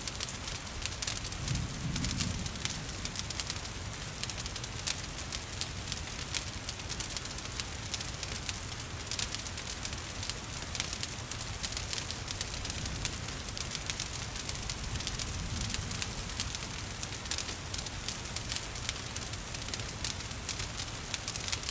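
Wood fire crackling, with dense sharp pops and snaps over a steady hiss of gentle rain, and a low rumble of the flames swelling a couple of times.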